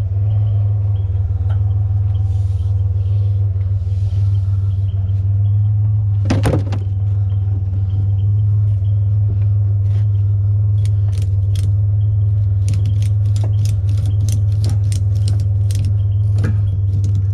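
Truck engine idling with a steady low hum. A brief scrape about six seconds in, then a run of sharp clicks, a few a second, from a ratchet strap being cranked tight over the load.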